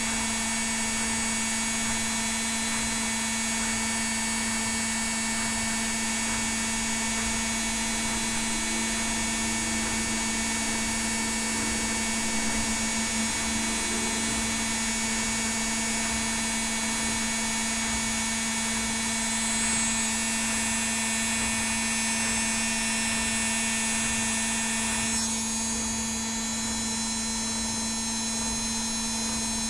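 Indesit WIL82 washing machine on its spin cycle: a steady motor whine at constant high drum speed over a hiss. About five seconds before the end the hiss eases slightly.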